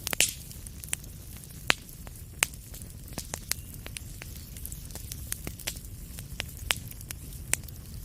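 Wood fire burning in a fireplace: irregular sharp crackles and pops over a low steady rumble of flame, with a quick cluster of pops right at the start.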